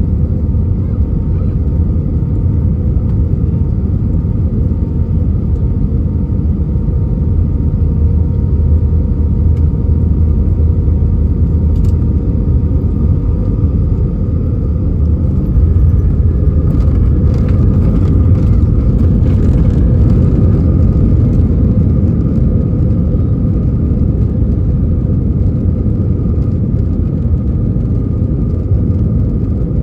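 Airbus A319 cabin noise heard from a window seat: a steady low rumble of engines and airflow, with a spell of rattling clicks from about 16 to 21 seconds in.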